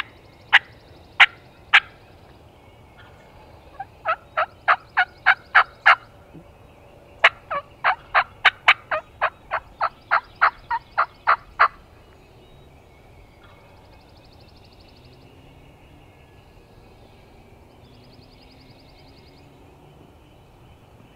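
Wild turkey yelping: three runs of sharp, evenly spaced yelps, the last and longest about fifteen notes, stopping about halfway through. Faint songbird trills follow.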